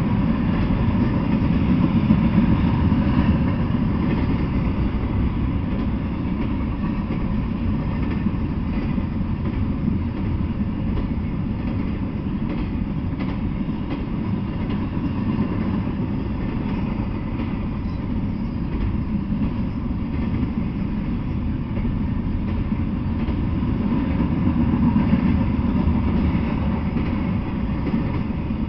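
Double-stack container freight train passing at speed: a steady low rumble of the railcars' wheels on the rails, swelling slightly near the start and again near the end.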